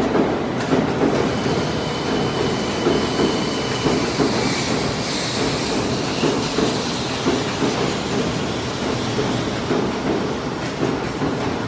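A 700 Series Shinkansen train running past a platform: a steady rumble of wheels on rail, with a brief higher hiss about five seconds in.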